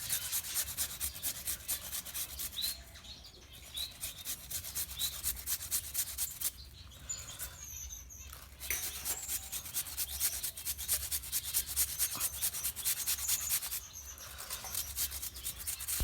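A pumpkin being peeled by scraping, a run of fast, even rasping strokes that stop briefly a few times. A few faint small-bird chirps come through over it.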